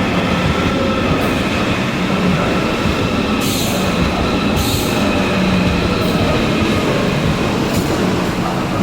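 A train running on rails: a steady, loud rumble with faint tones held through it, and a few short high hisses.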